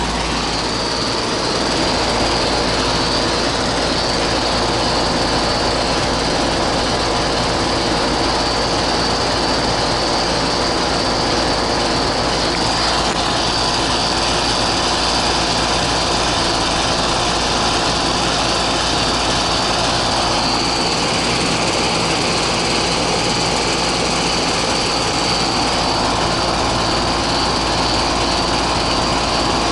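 Goodman 3-ton air-conditioning condensing unit running steadily: its condenser fan and compressor, with a constant high whine over a low hum.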